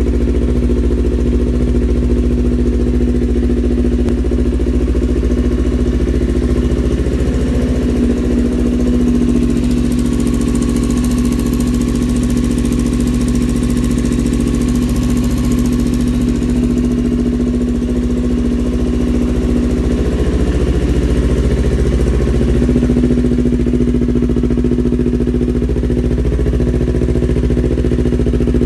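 Yamaha R25's parallel-twin engine idling steadily through a TRI-780 Tiger full-system aftermarket exhaust, with some added hiss for a few seconds in the middle.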